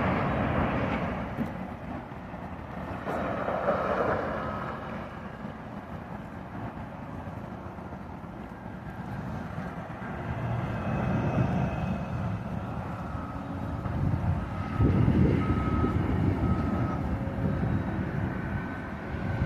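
Heavy construction machinery running, a steady low rumble that grows louder in the last few seconds, with faint short beeps repeating in the second half.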